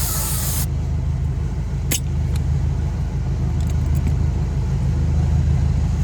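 Spray gun hissing as it lays on paint, cutting off sharply within the first second. A steady low engine hum runs underneath, with a few light clicks.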